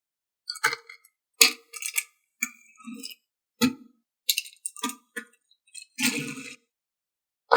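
Hard plastic toy parts being handled, clicking, knocking and clattering at irregular intervals, with a short scrape about six seconds in.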